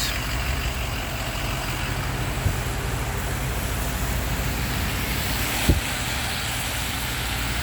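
Tow truck engine running steadily at idle, a continuous low rumble, with one short knock late on.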